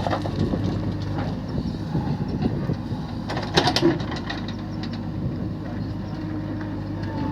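Diesel engine of a Sonalika tractor running steadily, with a short burst of clattering knocks about three and a half seconds in.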